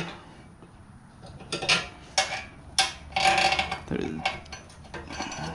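Steel roller chain being fed into place by hand, its links clinking and rattling against each other and the metal in a string of short, uneven clinks.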